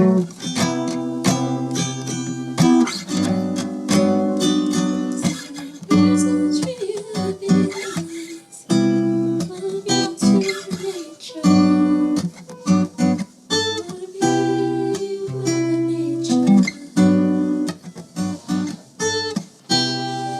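Acoustic guitar strumming chords in a steady rhythm, with a voice singing a melody over it.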